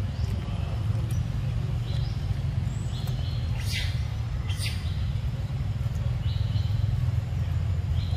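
Birds chirping in short repeated calls over a steady low rumble, with two sharp high calls close together about halfway through.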